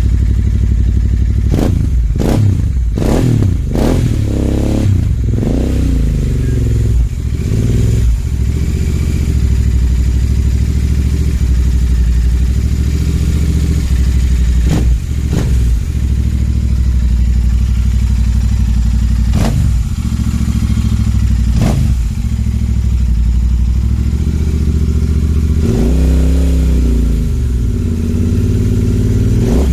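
Royal Enfield Continental GT 650's 648 cc parallel-twin engine breathing through an aftermarket Trident exhaust, idling steadily, with a quick run of throttle blips in the first several seconds and one more rev near the end. A few sharp cracks come through between the revs.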